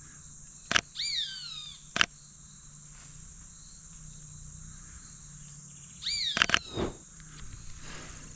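Roadside hawk giving two descending screaming calls several seconds apart, with a few sharp clicks around each call. A steady high insect drone runs underneath.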